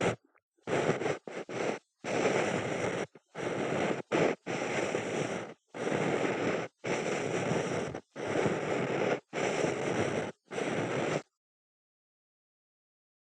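Ear pick scraping and rubbing inside an ear close to the microphone, in about a dozen separate strokes of up to a second each, with dead silence between them.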